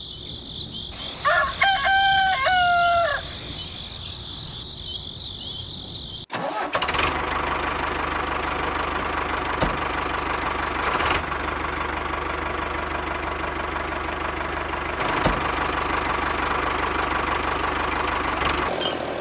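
A rooster crows once over a steady high insect drone. After a sudden cut, a small motor runs steadily with a low hum for about twelve seconds, then stops abruptly.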